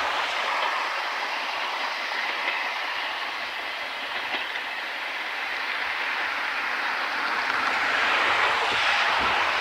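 Train running past on the rails with wheels clacking over the rail joints, growing a little louder near the end. Strong wind blows across the microphone throughout.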